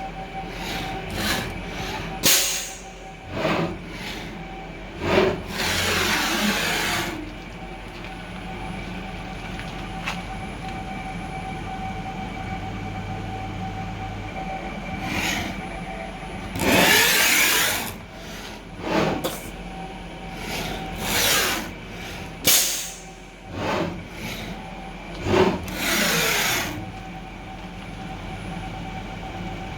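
CNC milling machine axes making a string of quick rapid moves during an automatic tool-length measuring cycle. Each move is a loud, harsh burst whose pitch sweeps up and down as the axis speeds up and slows, with a steady whine between moves. The rough, grinding sound is the sign of worn-out mechanics.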